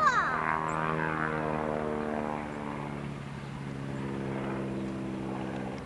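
Propeller airplane flying past, the engine's pitch dropping as it goes by and then holding steady as it moves away.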